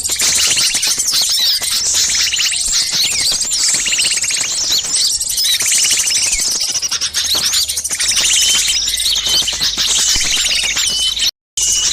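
Bird-lure recording of many small songbirds calling at once in a noisy, agitated chorus of overlapping chirps, fast trills and rising-and-falling whistles. The sound cuts out for an instant near the end.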